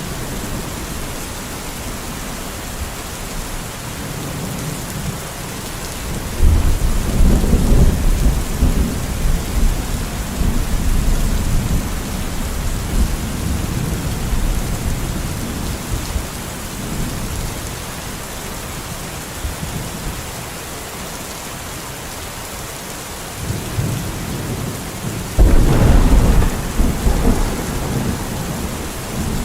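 Steady rain with rolling thunder. A low rumble breaks in suddenly about six seconds in and rolls on for several seconds, and a second one comes in near the end.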